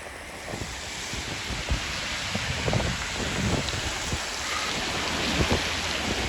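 Heavy rain coming down, a steady hiss that grows louder about half a second in, with wind knocking on the microphone.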